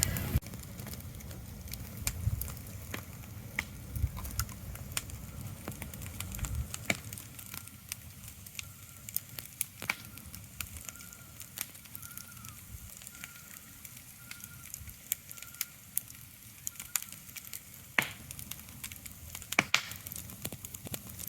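Irregular crackling clicks and sharp pops over a soft steady hiss, with a low rumble that drops away about six seconds in.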